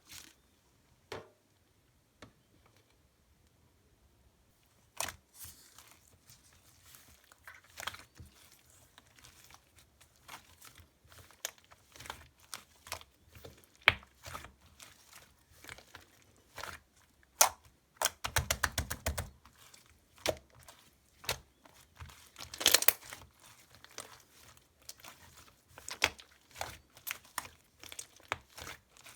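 Hands kneading and stretching a soft, chewy slime, giving sticky clicks, pops and crinkly crackles at an irregular pace. It is nearly silent for the first few seconds, with a fast run of pops about 18 s in and a louder crackle a few seconds later.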